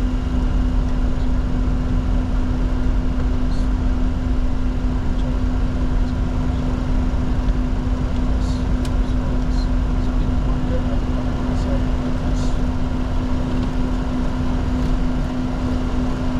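Steady flight-deck noise of a Bombardier Challenger 604 business jet: a constant rumble with one steady low hum, and a few faint clicks.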